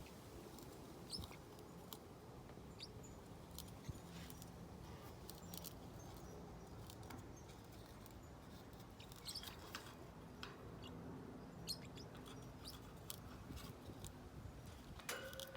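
Parrotlet beak chewing and crunching a yucca chew toy: faint, irregular small clicks and crackles, with a louder click near the end.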